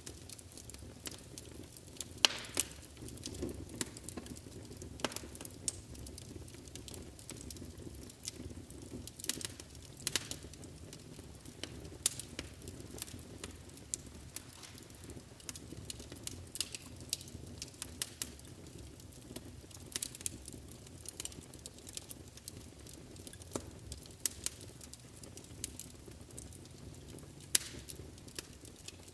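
Wood fire burning in a fireplace: a steady low rumble of flames with frequent irregular crackles and a few louder snapping pops.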